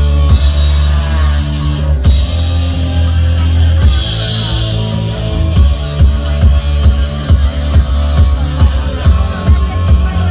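Rock band playing an instrumental passage with no vocals: distorted guitars and bass holding sustained chords over a drum kit, with a steady drum beat coming to the fore about halfway through.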